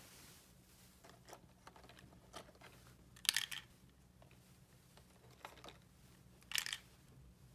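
Handling noise of toys and plastic packaging: faint scattered clicks, with two short crinkles of plastic about three seconds in and near the end.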